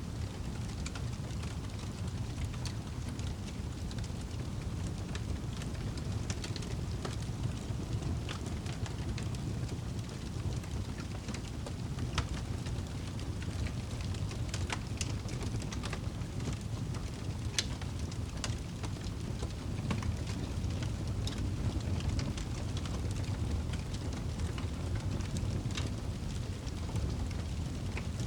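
Campfire crackling: irregular sharp pops and snaps scattered throughout, over a steady low rumble.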